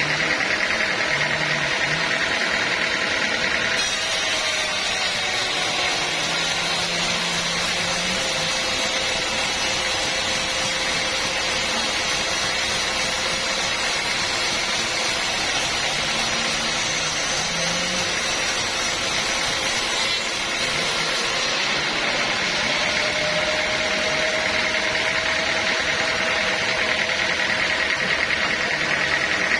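Sawmill machinery running steadily. A brighter, hissier sound joins it from about four seconds in until about twenty-one seconds.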